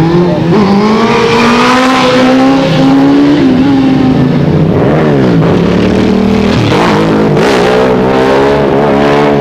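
Motorcycle engines revving as the bikes ride past close by, several in turn, their pitch rising and then dropping as each goes by.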